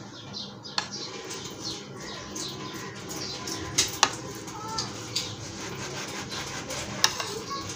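Birds chirping over and over in short, quick, falling notes, with a few sharp clicks at about one, four and seven seconds in.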